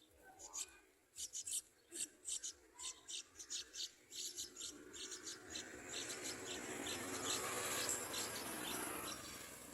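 Yellow-vented bulbul nestlings begging for food: a quick run of short, very high-pitched chirps, giving way about halfway through to a louder rustling hiss that swells and then fades near the end.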